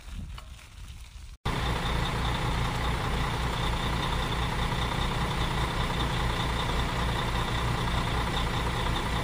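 A bus engine idling with a steady low throb. It starts abruptly about a second and a half in, after a fainter, patchy background.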